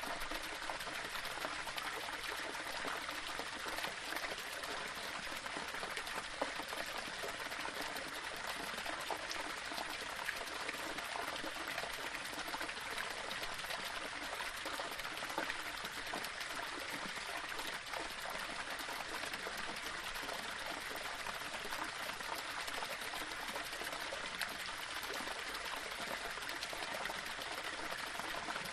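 Small waterfall running over rocks: a steady rush of falling water with small splashes.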